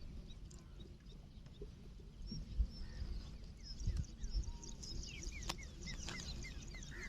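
Birds chirping outdoors: many short, quick chirps, getting busier in the second half, over a low rumble with a few dull thumps.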